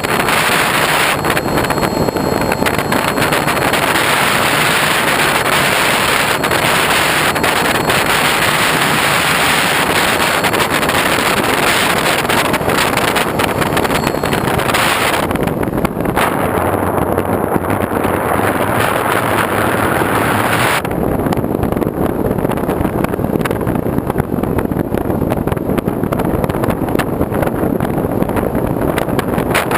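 Loud, steady rushing noise of wind buffeting the microphone of a moving camera. The hiss turns duller about 15 seconds in and again about 21 seconds in.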